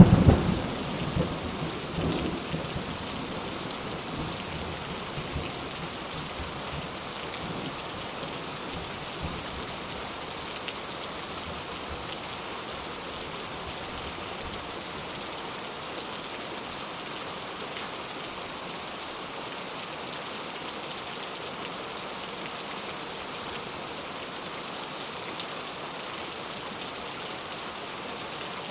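Steady rain falling, with the rumble of a thunderclap fading away over the first two or three seconds.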